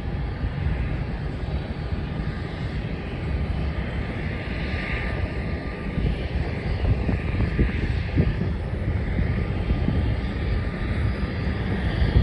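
Jet airliner engines heard from a distance, a steady broad rumble with a faint thin whine.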